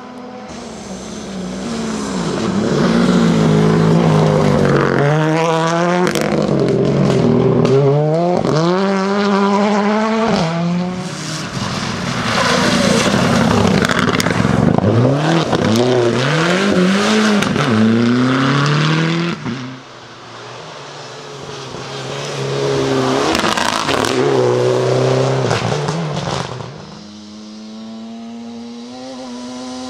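Rally car engines revving hard and shifting through the gears as the cars pass at speed, the pitch climbing and dropping sharply with each shift. The sound falls away a little after two-thirds of the way through, then a second car builds up and passes, with another engine coming in near the end.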